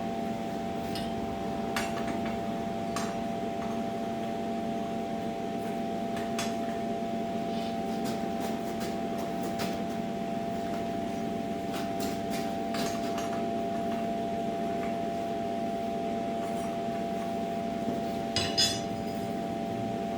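A steady machine hum runs throughout, with light metallic clinks and taps of steel tools scattered over it and a small cluster of clinks near the end.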